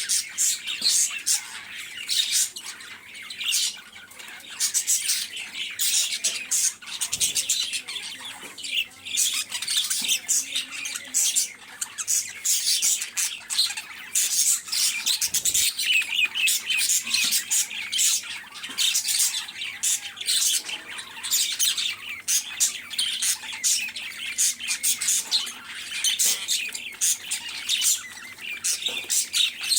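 Many small birds chattering at once, a dense run of short, high-pitched squawks and chirps overlapping without a break.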